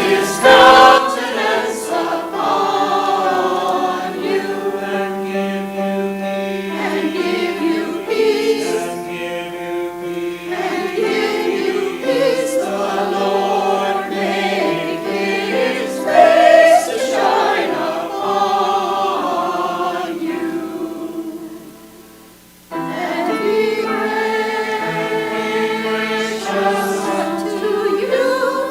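Church choir singing a slow piece in several parts with sustained chords; the sound drops away briefly about three-quarters of the way through, then the choir comes back in.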